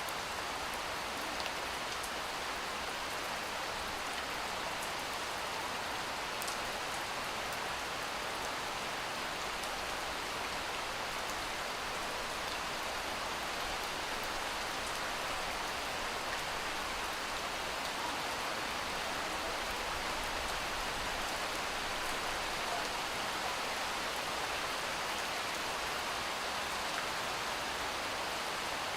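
Steady rain falling, an even patter of rain on a surface with a few faint drop ticks.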